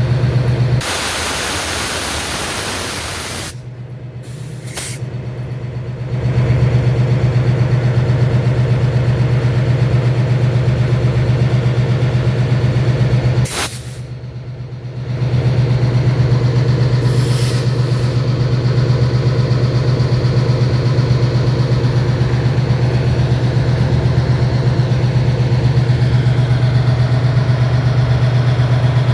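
Diesel locomotive engine running with a steady low drone. About a second in, a loud hiss lasts two to three seconds. The drone drops out briefly twice.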